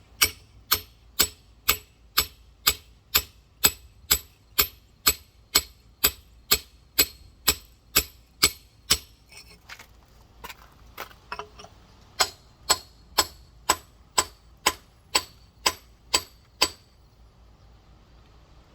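Rock hammer striking a large geode in steady, sharp blows, about two a second, working along a crack to split the stone. The blows pause briefly midway and stop near the end.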